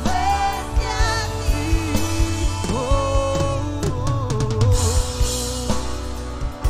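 Worship band music: a drum kit with kick and snare keeping a steady beat under a heavy bass, with a held melody line that slides between notes.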